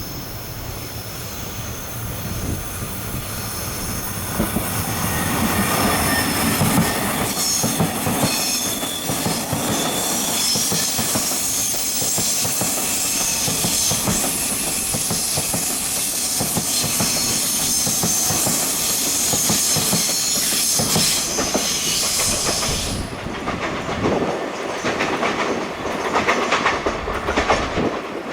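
Taiwan Railways local electric multiple-unit train passing close by, building up over the first few seconds, with a high wheel squeal over the running noise. The squeal cuts off abruptly well into the pass, and the wheels clatter over the rail joints near the end.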